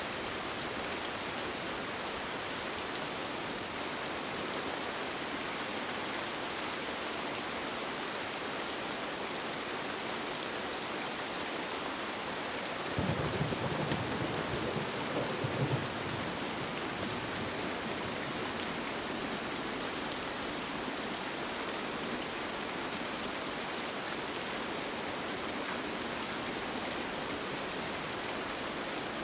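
Steady rain falling, with a low rumble of thunder about halfway through that swells for roughly three seconds and fades.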